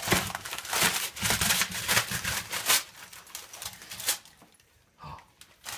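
Wrapping paper crinkling and tearing as a dog rips at a wrapped gift: a quick run of rustles for about three seconds, then only a few scattered ones.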